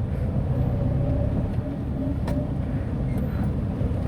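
Steady in-cabin driving noise of a Tata Nano: low engine and road rumble, with a single sharp click a little past two seconds in.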